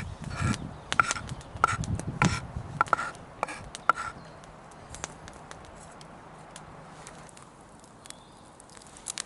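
A run of irregular sharp knocks and clicks with some dull thuds for about four seconds, then only a few faint scattered ticks.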